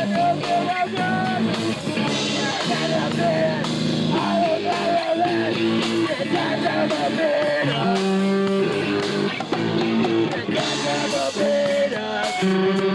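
Live punk rock band playing: distorted electric guitar and drums with cymbal crashes, with a voice singing over them.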